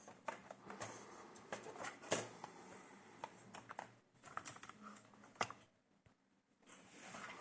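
Irregular small clicks and taps of hands working on an opened laptop's underside, with two sharper clicks about two seconds in and near five and a half seconds in.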